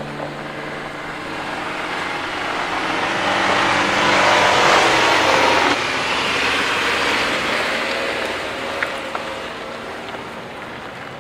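2019 Ford Ranger pickup driving past, its road and tyre noise swelling to a peak about five seconds in and then fading away.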